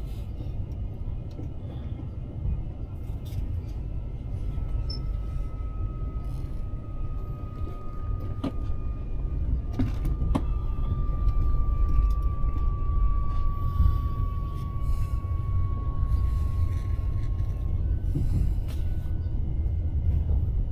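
Cabin noise of a high-speed train running: a steady low rumble, with a thin whine that slowly falls in pitch from about four seconds in and fades out a few seconds before the end, and a couple of faint clicks around the middle.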